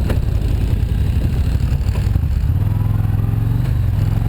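Motorcycle engine running steadily while riding. About two and a half seconds in, the engine note changes and settles into an even hum.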